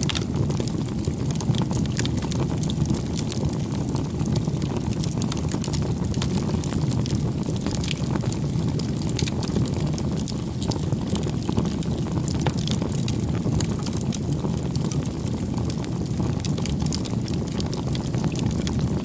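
Wood campfire burning: a steady low rumble of flames with many small, scattered crackles and pops.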